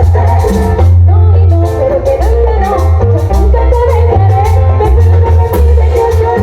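Latin dance band playing live: a heavy bass line, steady drum hits and a wavering melody line over them.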